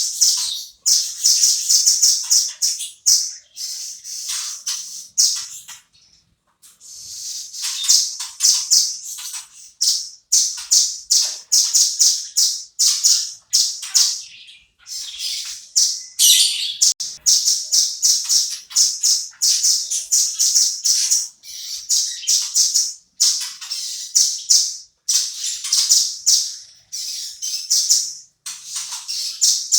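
Velvet-fronted nuthatch calling in fast runs of sharp, high chips, broken by short pauses, with a longer break about six seconds in.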